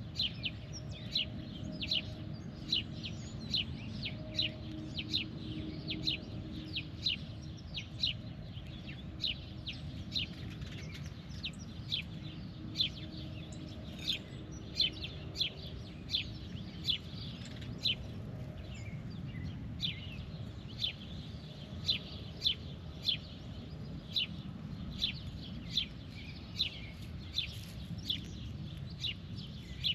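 A bird chirping over and over, short sharp calls at about two a second, thinning out for a few seconds about a third of the way in, over a steady low background rumble.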